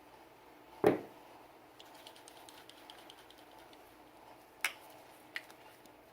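Clicks and clacks of a Sig Sauer P320 pistol and its parts being handled during cleaning. One loud clack comes about a second in, then a run of light quick ticks, then two sharp clicks near the end.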